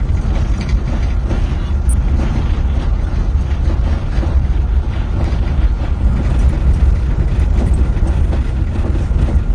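Steady low rumble of vehicle traffic, strongest in the deep bass, with no distinct engine note or single event standing out.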